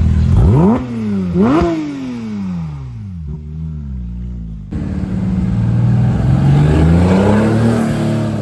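Porsche engine revved in two quick, sharp blips, its pitch falling away after each. After an abrupt cut about halfway through, another Porsche engine rises steadily in pitch under acceleration, easing slightly near the end.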